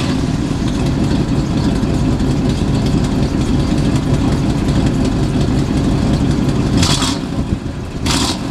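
Buick 401 cu in Nailhead V8 running through its dual exhaust with a steady low rumble, with a few short bursts of hiss near the end.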